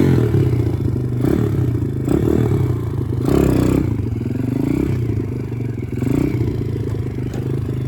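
Small single-cylinder four-stroke pit bike engine running steadily with a mechanical clatter.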